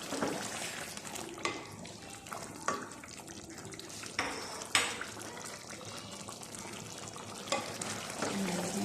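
Chicken and masala frying in oil in a karahi, a steady sizzle, with a spoon stirring and knocking against the pan several times.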